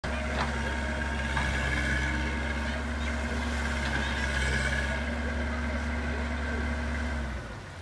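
Tractor engine running steadily with a low hum, stopping abruptly near the end.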